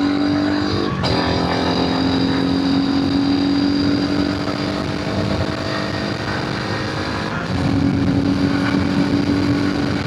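Royal Enfield Himalayan 450's single-cylinder engine and exhaust running on the move at steady revs. There is a brief break about a second in; the note eases off in the middle and comes back stronger near the end.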